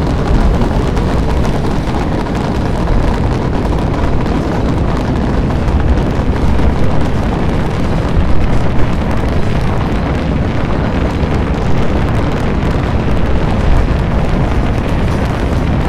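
Spaceship engine sound effect firing continuously: a loud, steady, deep noise with its weight in the low end and no pitch to it.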